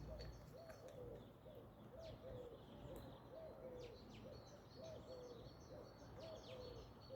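Faint outdoor birdsong: a low arched call repeated about twice a second, with scattered high thin chirps over it.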